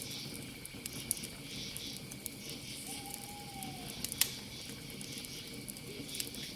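Campfire crackling steadily with sharp pops, the loudest about four seconds in, over a steady background of night insects. A single short call that falls slightly in pitch is heard about three seconds in.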